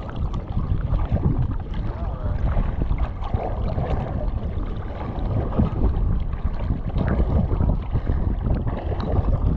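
Wind rumbling on the microphone over open sea water, with faint voices in the background.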